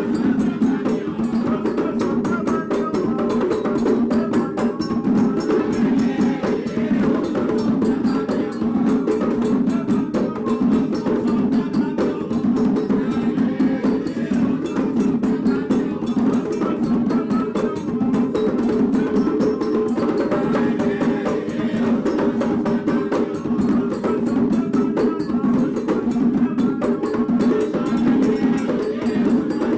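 Candomblé drumming for Oxum: atabaque hand drums played in a fast, dense, continuous rhythm, with a sharp wood-block-like click over the drums.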